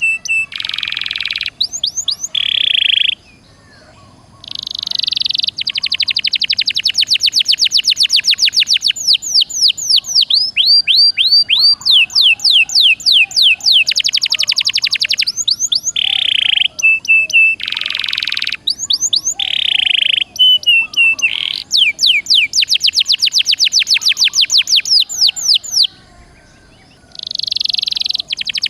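Domestic canary singing loudly, a long song of fast trills, sweeping chirps and buzzy rolls, with two short breaks.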